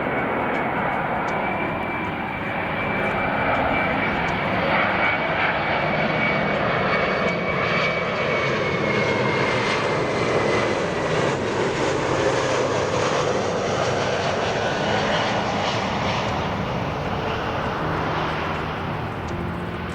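Airbus A321 airliner's jet engines passing close on landing approach: a steady roar that swells to its loudest through the middle and eases near the end. A high whine runs over it and drops a little in pitch as the plane goes by.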